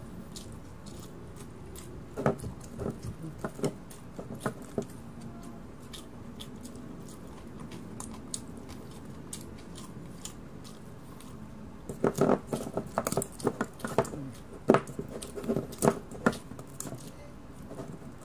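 Close-up chewing and crunching of food, with clusters of sharp crunches about two seconds in and again from about twelve seconds on.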